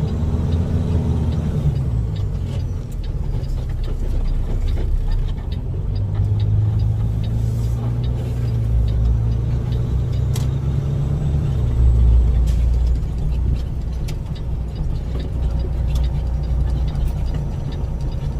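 Truck engine running while driving in traffic, heard from inside the cab as a steady low rumble. Its note falls in the first couple of seconds, rises about six seconds in, holds, then drops back near the twelve-second mark with a heavier low rumble.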